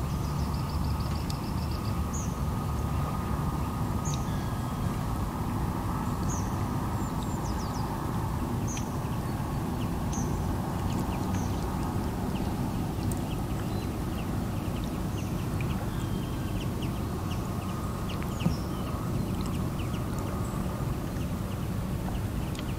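Small birds chirping: short high calls every second or two, with a brief trill near the start, over a steady low outdoor rumble. One sharp click comes near the end.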